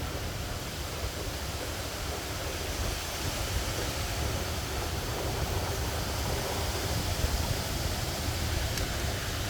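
Steady rain falling in a storm: a dense, even hiss with a low rumble underneath.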